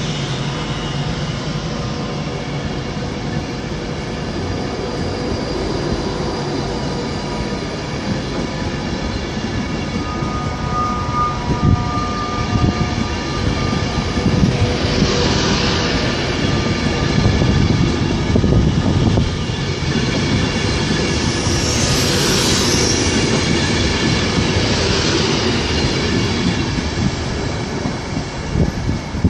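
Class 390 Pendolino electric train pulling out of the station. A steady hum with faint tones in the first half, then louder swells of wheel and rail noise with clickety-clack as it gathers speed past the platform, loudest about two thirds of the way in.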